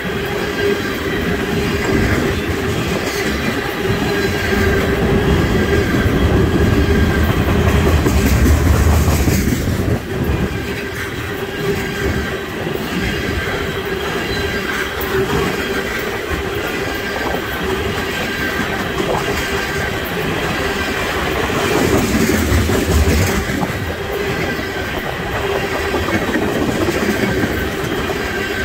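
Railroad tank cars of an oil train rolling past close by: the steady rumble and clatter of steel wheels on the rails, with a steady ringing tone above it. It swells louder twice, about a quarter of the way in and again about three quarters through.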